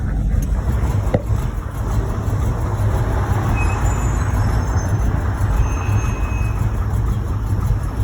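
1986 Chevrolet Monte Carlo SS V8 running on the road, a steady low rumble with road noise, from an engine that has a rod knock. A single short click about a second in.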